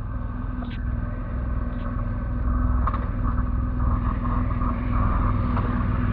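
Motorcycle engine running steadily at idle, getting a little louder about two and a half seconds in, with a few faint clicks.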